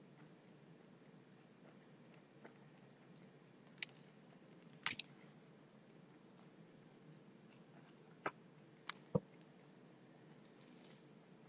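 A person chewing a mouthful of sandwich with lips closed, mostly quiet, with a few short sharp clicks from the mouth or wrapper, the loudest a quick double about halfway through.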